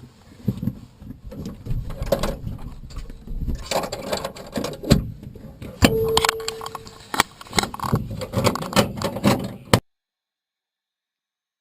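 Irregular clicks, rattles and knocks of things being handled, with a short steady tone about six seconds in; the sound cuts off abruptly near the end.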